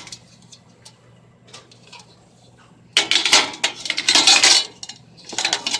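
Hard household goods clinking and clattering as they are picked up and handled, in a busy stretch about three seconds in and again near the end, after a few faint clicks.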